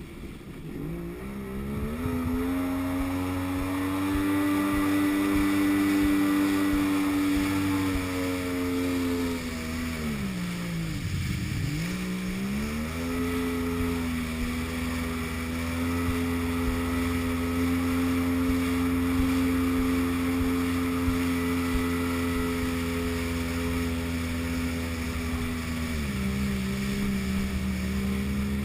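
Jet ski engine running at steady high revs after revving up as it gets under way. About ten seconds in the throttle comes off and the pitch falls sharply, then climbs back to cruising speed within a couple of seconds; the revs ease slightly near the end.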